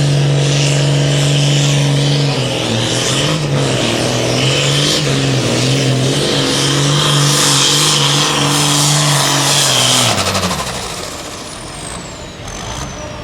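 John Deere hot farm pulling tractor's turbocharged diesel at full throttle on a pull, with a high steady whistle over the engine note; about two seconds in the note starts to waver as the sled loads it. About ten seconds in the throttle is cut and the engine drops away, leaving a high whistle that slowly falls in pitch as the turbo spools down.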